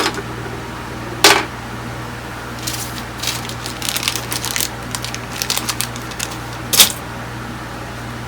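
Small items being handled on a workbench: irregular light clicks and rattles, with two louder short, sharp noises, about a second in and near the end, over a steady low hum.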